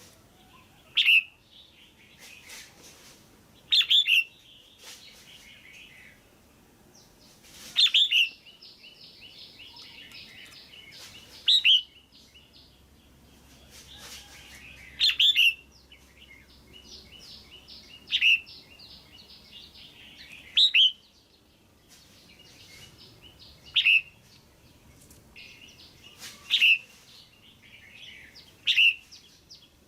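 Female red-whiskered bulbul calling: short, loud, sharp notes, often doubled, repeated about every three seconds, with a softer rapid chatter between them. This is the female's call used to stir males or to pair birds.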